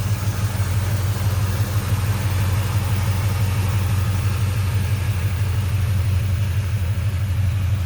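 1972 Chevrolet C10's 406 V8 idling with a steady low rumble.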